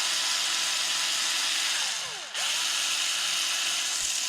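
Power drill spinning, backing out the RC truck's servo screws. It runs steadily, lets off briefly about two seconds in with a falling whine as it spins down, then runs again. It is loud, with the drill close to the microphone.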